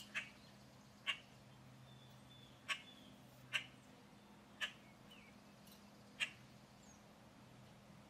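A bird at a feeder giving short, sharp single calls, six in all at irregular intervals of about one to one and a half seconds, over a faint steady low hum.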